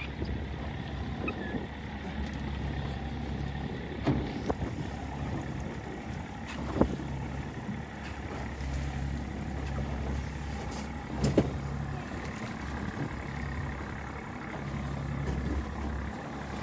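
Fishing boat's engine running steadily with a low, pulsing hum, and a few sharp knocks about 4, 7 and 11 seconds in.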